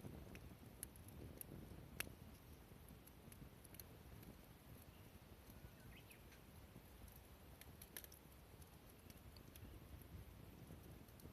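Near silence with scattered faint, sharp clicks and ticks, one sharper click about two seconds in.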